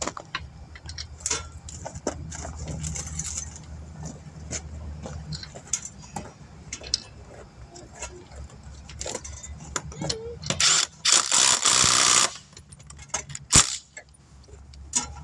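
Hand tools and metal parts clinking and clanking while lug nuts are worked on a truck wheel, with a steady low hum underneath. Near the end comes a loud rushing burst of about a second and a half, then a single sharp knock.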